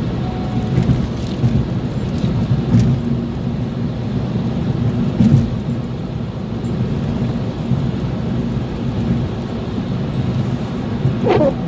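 Steady low rumble of a car's engine and tyres heard from inside the cabin while driving. Near the end comes a short squeak that falls in pitch.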